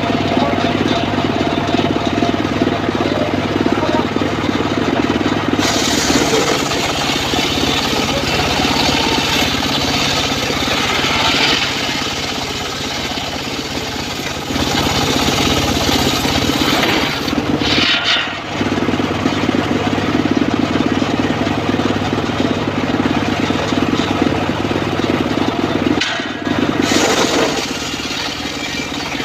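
Homemade engine-driven circular sawmill running steadily while its blade rips teak. A harsher, hissing cutting sound joins about six seconds in and drops out briefly twice.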